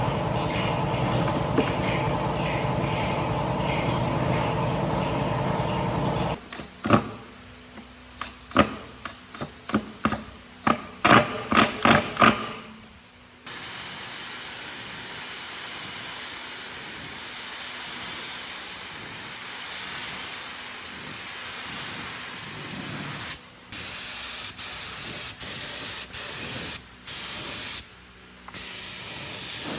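A steady machine noise for about six seconds, then a quick run of about a dozen sharp knocks, then a long steady hiss like compressed-air spraying that starts about halfway through and stops and restarts several times near the end.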